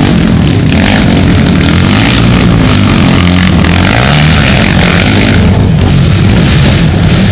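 Racing ATV engines revving hard and loud, pitch rising and falling with the throttle.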